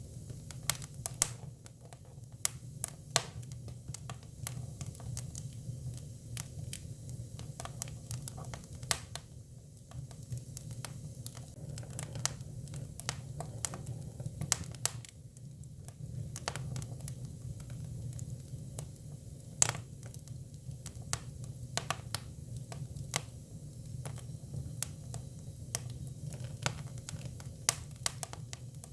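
Hinoki cypress firewood burning: irregular sharp crackles and pops, a few much louder than the rest, over a low steady rumble of the fire.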